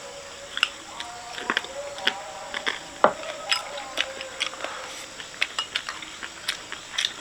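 Eating at a meal: utensils clicking and knocking irregularly against bowls and dishes, with chewing.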